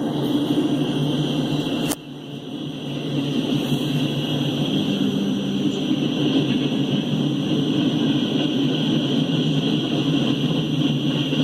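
EMD SD70MAC diesel-electric locomotives running with a steady low rumble and a steady higher hiss on top. About two seconds in there is a sharp click and the level drops suddenly, then builds back up.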